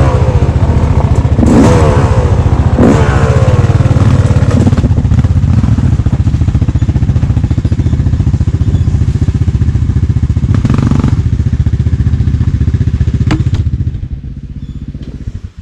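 Dirt bike engine running close to the microphone, revved up twice in the first few seconds and then held at a steady pace. It drops away near the end and cuts off suddenly.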